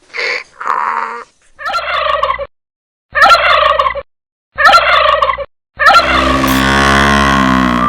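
Domestic turkey gobbling: two short calls, then three rattling gobbles about a second and a half apart, then a longer drawn-out call near the end.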